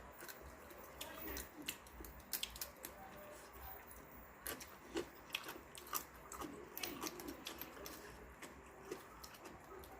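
A person eating at close range: chewing with irregular sharp clicks and crunches, a few every second.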